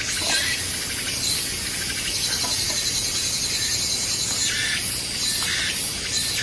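Insects trilling steadily in the forest, a high continuous chirring that thins out near the end.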